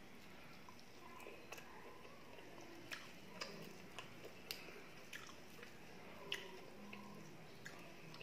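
Close-miked chewing of a mouthful of rice and fried fish with the mouth closed, with soft wet mouth clicks and smacks scattered through it.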